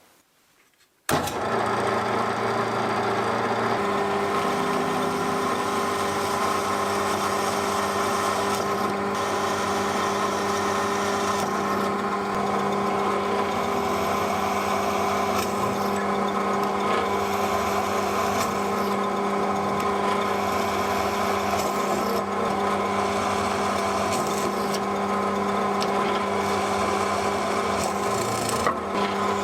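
Restored KIRA 10 mm bench drill press running steadily under its electric motor, a constant hum with a steady mechanical whir. It comes in suddenly about a second in.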